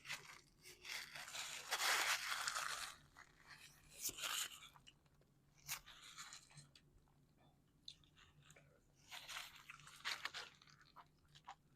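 Biting into and chewing a freshly baked calzone, its crust crunching in several bursts: a long one about a second in, then shorter ones around four, six and ten seconds in.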